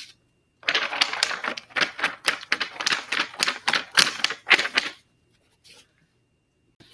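Fast scratchy strokes of scribbling on paper, a rapid uneven run of several strokes a second lasting about four seconds before stopping abruptly.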